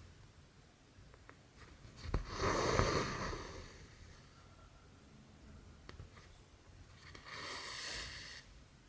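Cotton embroidery thread drawn through cross stitch fabric, making two rasping swishes of about a second each, the first louder and opening with a sharp tick. There are a few faint ticks of needle and hoop handling between them.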